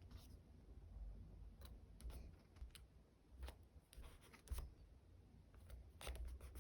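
Faint paper-crafting sounds of stickers and paper being handled on a desk: scattered soft clicks, taps and light rustles, the sharpest about four and a half seconds in.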